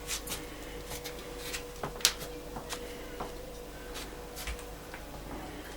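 Scattered light clicks and rustles of handling, the sharpest about two seconds in, over a faint steady hum.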